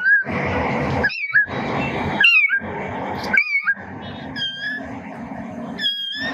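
Animal sounds: rough, noisy calls in stretches broken by short gaps, with high chirping squeaks over them.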